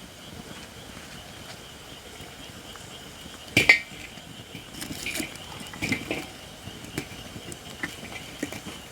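Campfire of Japanese white oak (shirakashi) firewood crackling, with a handful of sharp pops. The loudest comes about three and a half seconds in, and smaller ones follow every second or so. The oak is not yet fully dried.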